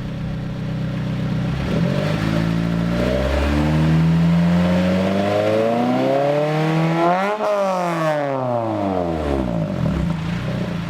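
Honda S2000's F20C four-cylinder engine revving through a single-exit aftermarket 'fart can' exhaust, with a Honda-esque, obnoxious note. The revs climb steadily for about five seconds, peak about two-thirds of the way in, then drop back over a couple of seconds to a steady run.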